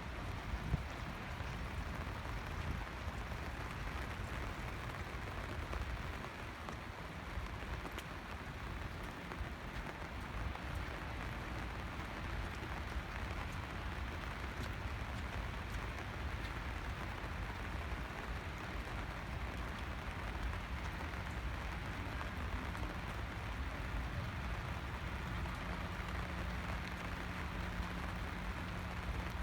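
Steady rain falling, an even hiss with a low rumble underneath. A faint steady hum comes in about two-thirds of the way through.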